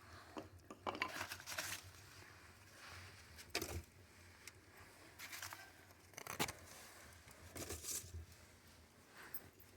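Kindling and cardboard fire crackling in a wood stove: faint, irregular snaps and crackles, with a louder burst every second or two.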